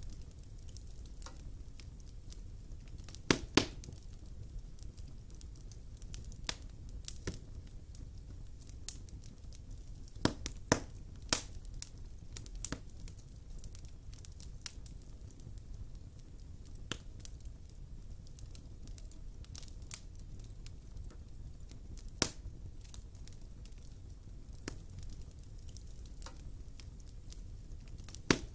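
Wood fire burning in a fireplace: a steady low rumble of the flames with scattered crackles and sharp pops of the burning logs. The loudest pops come in pairs about three seconds in and around ten to eleven seconds in, with another near the end.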